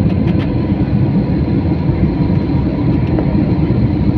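Airliner cabin noise: a loud, steady low rumble of the jet engines and the moving aircraft, with a faint steady whine above it.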